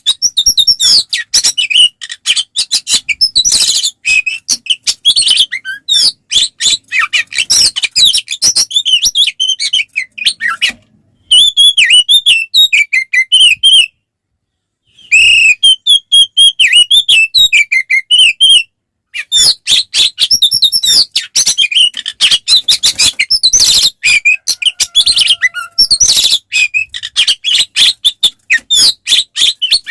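Oriental magpie-robin (kacer) singing a loud, fast, unbroken run of chattering notes and sharp whistles in its combative, full-throated fighting song. The song stops for about a second around halfway, and briefly again a few seconds later.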